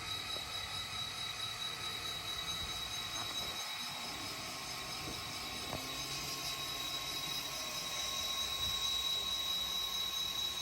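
N scale model train running on the layout: a steady high whine over a faint rolling rumble, with a few light ticks.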